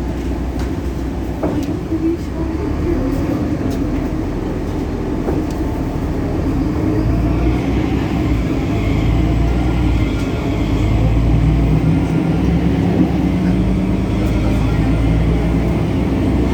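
Solaris Urbino 18 articulated bus's DAF Paccar PR265 diesel engine running steadily; about ten seconds in its note climbs and grows a little louder as it takes up power.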